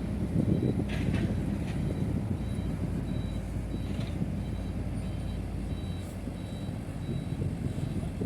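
Diesel engine of heavy earthmoving machinery running, with a reversing alarm beeping at an even pace from about two seconds in, as a dump truck or bulldozer backs up. A few short metallic clanks are heard early on and near the middle.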